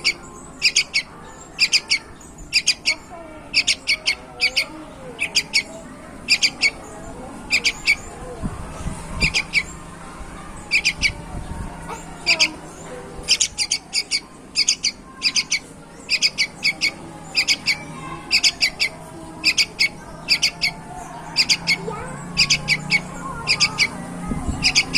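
Yellow-vented bulbul calling over and over: quick groups of two to four short, sharp chirps, about one group a second.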